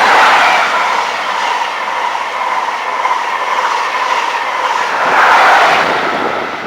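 A train running close by along the platform: a loud, steady rush of wheels on rail with a steady whine through it, swelling again about five seconds in.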